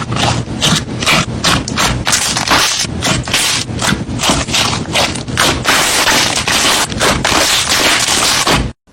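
Slime being squeezed and poked close to the microphone: a loud, continuous sticky crackle with a quick run of pops, a few a second. It stops abruptly near the end.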